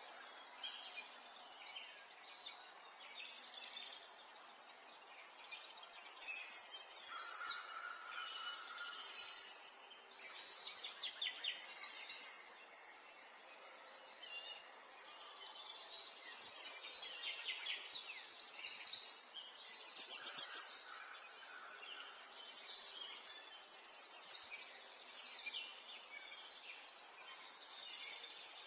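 Songbirds singing: repeated phrases of fast, high chirping trills, each lasting a second or two, over a faint steady background noise.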